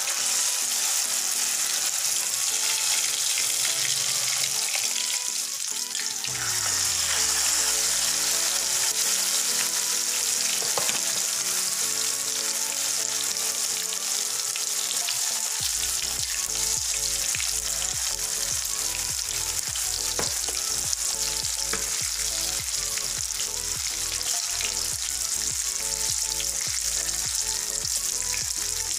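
Egg-dipped eggplant frying in hot oil in a pan: a loud, steady sizzle that grows a little louder about six seconds in.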